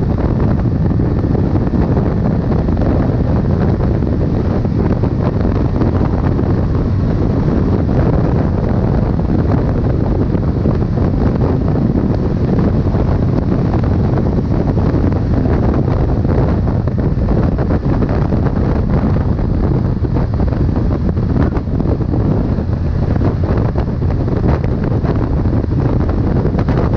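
Heavy wind buffeting the microphone: a loud, steady low rumble with no breaks.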